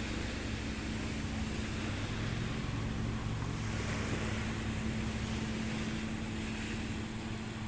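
Steady low drone of a boat engine under a wash of wind and water noise.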